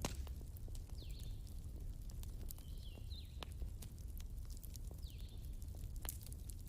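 Wood fire crackling, with irregular sharp pops and snaps, over a steady low rumble of flowing river water. A short high chirp repeats every couple of seconds.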